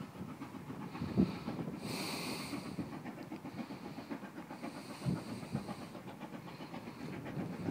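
Steam locomotive running past with a steady rumble of wheels on rail and a few knocks. Bursts of steam hiss come about two seconds in and again near five seconds.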